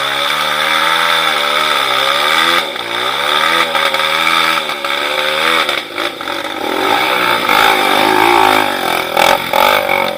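Off-road motorcycle engine revving, its pitch rising and falling over and over as the throttle is worked. Near the end the engine note breaks up into a few short knocks.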